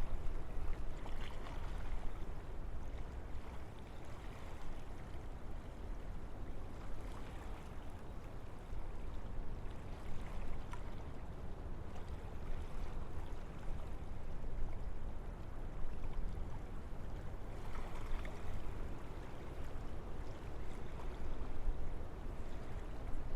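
Wind blowing through forest trees, a steady rush that swells in a few gusts.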